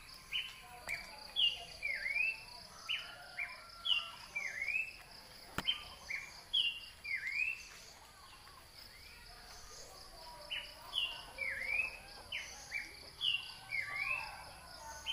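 A bird singing a short phrase of sharp chirps and swooping notes over and over, about every one and a half seconds, with a pause of a few seconds near the middle. A steady, rapidly pulsing insect drone runs underneath.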